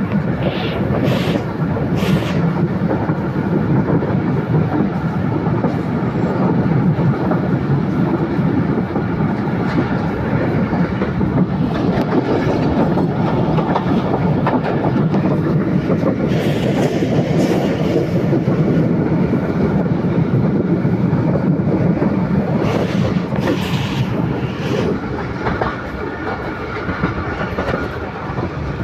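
A long train rolling along the track: a steady rumble of wagons with wheels clacking over rail joints. There are a few sharper clicks near the start, about midway and again about three quarters through, and the sound eases slightly near the end.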